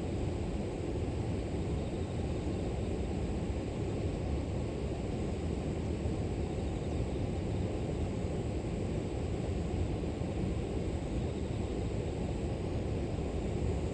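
River water flowing steadily with a low, even rush, with a faint steady high-pitched hum of grass insects above it.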